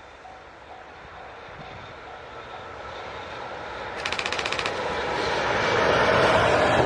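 Japanese level crossing alarm dinging about twice a second while a train approaches, its running noise rising steadily until it drowns out the alarm and is loud near the end. A brief fast rattle comes about four seconds in.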